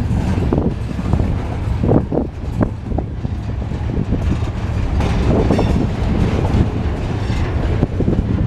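Train passing, its wheels clacking irregularly over rail joints above a steady low rumble.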